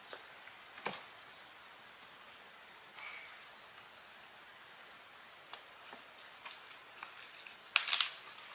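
Steady high-pitched drone of forest insects, with scattered light clicks and knocks and a louder short clatter of knocks near the end.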